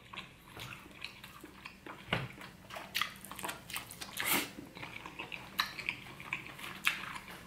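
Mouth sounds of a person eating king crab meat dipped in cheese sauce: chewing, with many short, irregular clicks and a few louder smacks.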